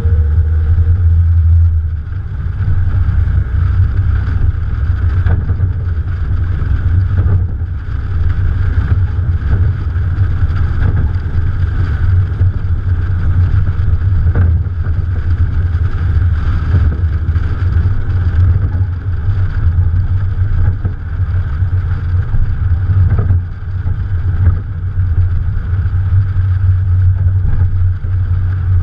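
Morgan Plus 4's Ford 2.0-litre engine running with the car under way, a steady low drone with road and wind noise, heard from a camera on the bonnet.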